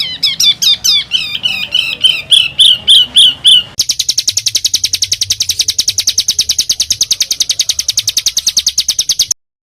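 A songbird singing a rapid string of harsh, sweeping notes, about five a second, slowly climbing in pitch. About four seconds in it switches to a very fast, even, high trill (a tight 'roll'), which cuts off abruptly near the end.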